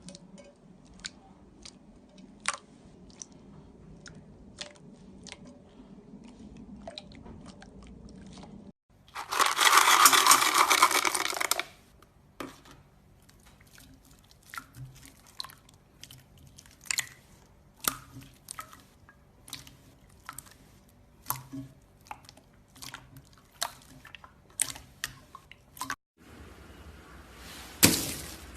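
Slime being pressed and squeezed by hand, giving a run of small sharp crackling pops, with a loud stretch of dense crunching about nine seconds in that lasts some three seconds.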